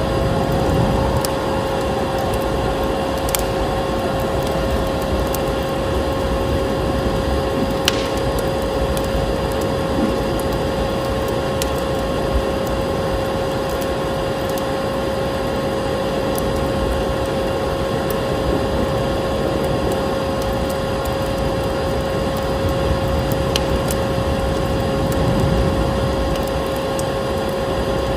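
A vacuum cleaner runs with a steady drone at a constant pitch, mixed with a wood fire that crackles with scattered sharp pops.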